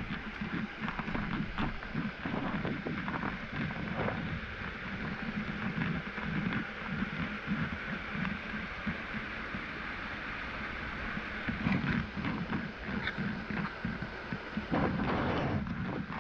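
Waterfall water rushing steadily, with wind buffeting the microphone.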